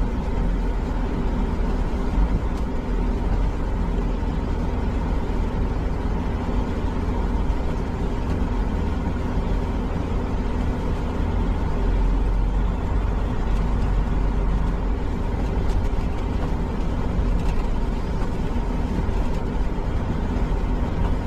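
Semi-truck diesel engine running steadily as the tractor-trailer is driven along a muddy dirt road, a continuous low drone.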